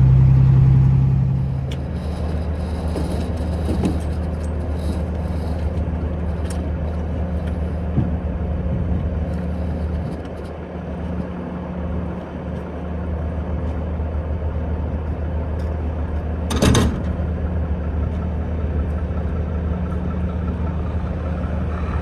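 Peterbilt 359 semi truck's diesel engine running steadily under way, louder for the first second and a half and then easing off to an even hum. A short burst of noise about three-quarters of the way through.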